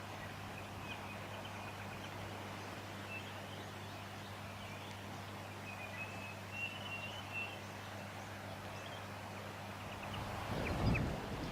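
Faint high chirps and short warbling calls of small birds, coming in scattered bursts over a steady low hum, with a brief low rumble of wind on the microphone near the end.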